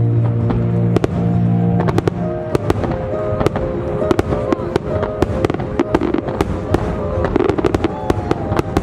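Fireworks going off in quick succession, many sharp bangs, over music with long held notes.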